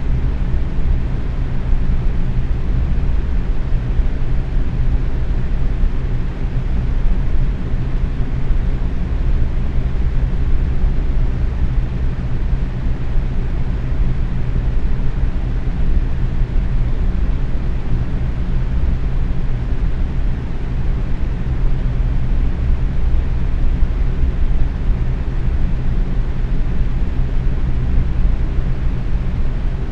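Box fan running steadily at medium speed, a constant low whooshing rush of moving air with a faint hum from the motor.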